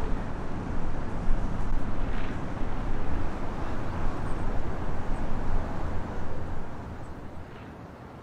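Strong wind buffeting the microphone through an inadequate windshield: a rough, gusting rumble that eases off sharply near the end.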